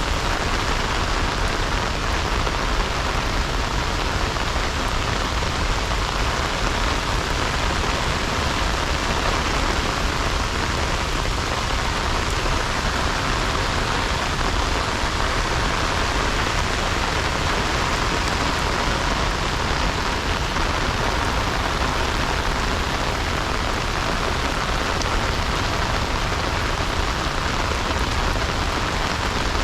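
Heavy rain falling steadily, an even dense hiss of drops striking the ground, with a low rumble underneath.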